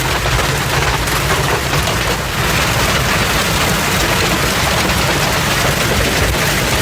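Hailstorm: a dense, steady clatter of hailstones and rain pelting down on surfaces, made of countless small impacts over a low rumble.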